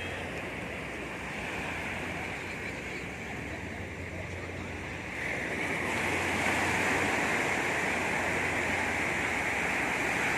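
Sea surf washing on a beach: a steady rush of waves that grows louder about halfway through.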